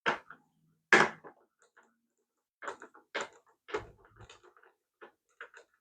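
Small plastic toy-car parts being handled and fitted together: two sharp knocks near the start and about a second in, then a run of lighter clicks and taps.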